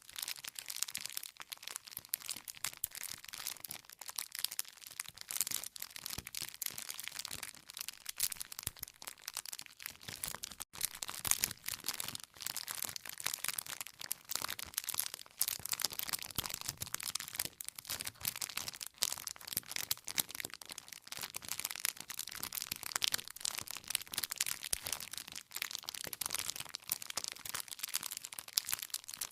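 Wood campfire crackling, with a dense, irregular run of small pops and snaps from the burning firewood.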